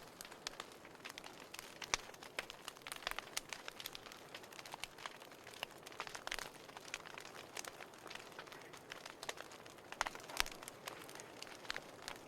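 Burning firewood crackling: irregular sharp pops and snaps over a soft steady hiss.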